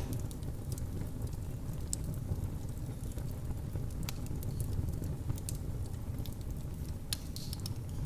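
Wood fire crackling in a fireplace: a steady low rumble of flames with scattered sharp pops and snaps at irregular intervals.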